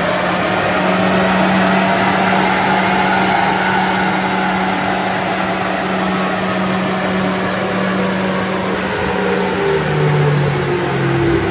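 Rolls-Royce Ghost's twin-turbo V12 running at steady speed on a chassis dyno through an Akrapovic valved exhaust, with the dyno rollers and tyres whirring along. The engine note rises slightly and eases off, and its low tone drops about ten seconds in.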